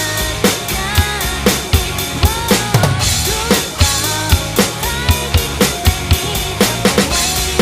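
Acoustic drum kit played along with a pop-rock song recording: steady kick and snare hits over the song's guitar and melody.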